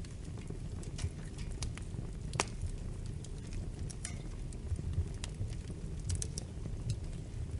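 Wood fire crackling in a fireplace: irregular sharp pops and snaps over a low steady rumble of the burning fire, with one louder pop about two and a half seconds in.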